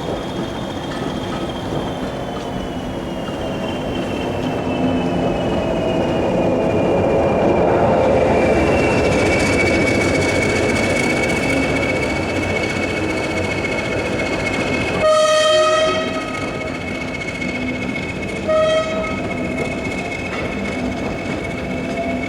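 Diesel locomotive running past with a rumbling engine and a steady high whine that drops slightly in pitch and swells as it nears. Its horn sounds one blast of about a second about two-thirds of the way through, then a short second blast a few seconds later.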